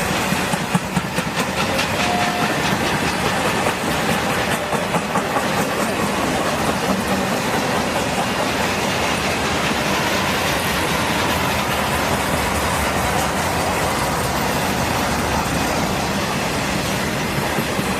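Freight train cars rolling past on the Norfolk Southern main line, a steady rumble of wheels on rail with the clickety-clack of wheels over rail joints, most distinct in the first few seconds.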